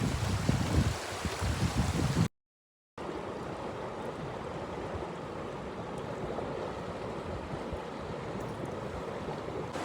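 River water rushing steadily, with heavy low rumbling over it in the first two seconds. The sound cuts out completely for about half a second a little over two seconds in, then the steady rush of water resumes.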